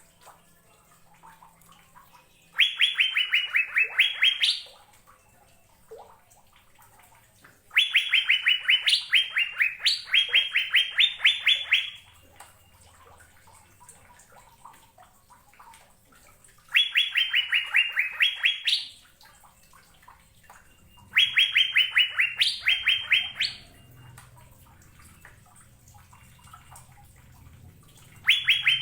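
Asian fairy-bluebird (cucak biru) singing phrases of quick, clear repeated notes. Each phrase steps down slightly in pitch and then jumps higher near its end. There are four phrases with gaps of a few seconds between them, and a fifth begins at the very end.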